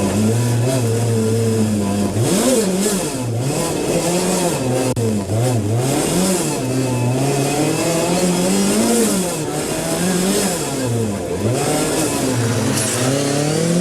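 Rally car engine revving hard at full throttle on a stage, its pitch climbing and dropping again and again as the driver shifts and lifts through corners, over a hiss of gravel and tyre noise.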